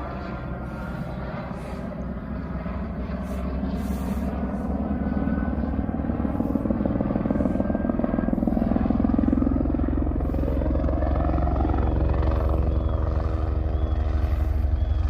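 Helicopter's rotor and turbine engine running during autorotation training, growing steadily louder, with a tone that rises in pitch about two-thirds of the way through.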